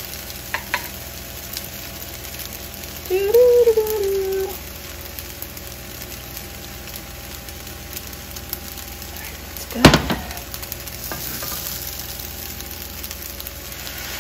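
Fried rice of rice, mixed vegetables and egg sizzling steadily in a nonstick skillet. A brief wavering tone comes about three seconds in, and a single sharp knock near ten seconds is the loudest sound.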